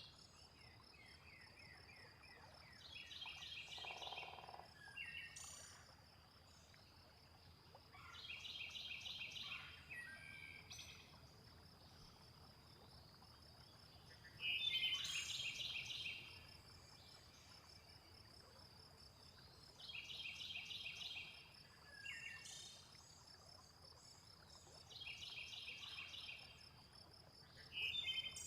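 Night-time nature ambience: a steady high insect trill, a patterned call repeated about every five or six seconds, and scattered short falling bird chirps, with one lower call about four seconds in.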